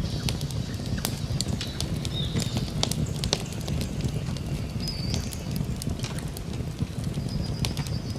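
A campfire crackling, with frequent sharp pops over a steady low rumble. Birds whistle a few short, high notes now and then.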